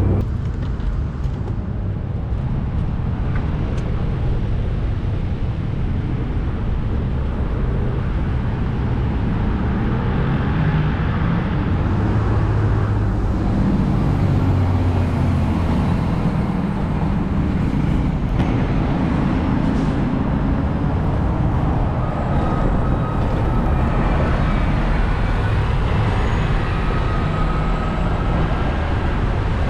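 Steady rush-hour street traffic: cars passing on a busy city road, a continuous loud rumble and hiss.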